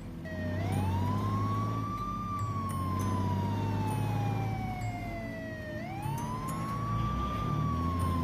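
A siren wailing slowly. It rises quickly about half a second in, falls gradually for about five seconds, then rises again near the end, over a steady low hum.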